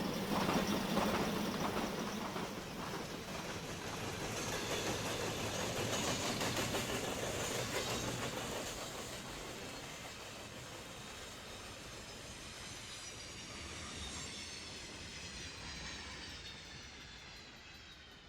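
Steam-hauled train rolling past on the rails, loudest in the first half and fading steadily as it moves away.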